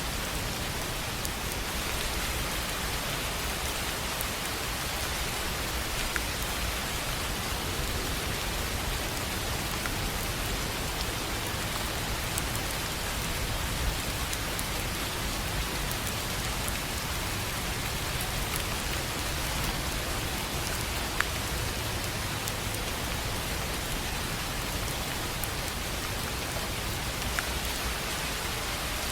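Steady rain falling on a tin roof: an even hiss of rain, with now and then a single louder drop ticking sharply.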